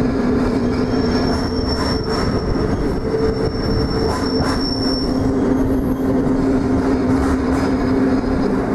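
Train running along street-running track with a steady low drone. A thin high wheel squeal runs for about four seconds, starting about a second in, and a few short clanks are heard.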